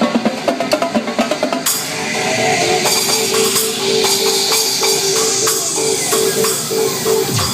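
Dance music with live drumming over it: a fast run of drum strokes, then about two seconds in a crash of cymbal wash rings on over the track's pulsing synth note.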